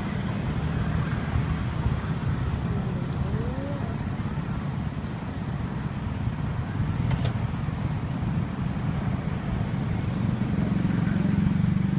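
A motor vehicle's engine running steadily with a constant low hum, over an even rushing noise.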